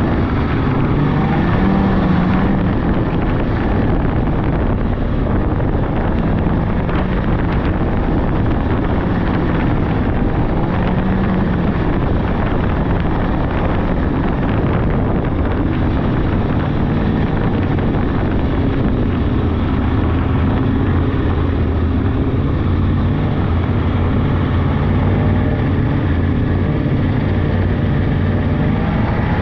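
Polaris 600cc two-stroke snowmobile engine running steadily under way, its note rising and falling a little with the throttle.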